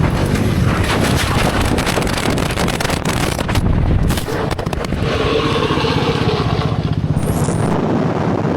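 Motorcycle engine running hard under way, with a rapid pulsing exhaust note; its pitch falls about halfway through.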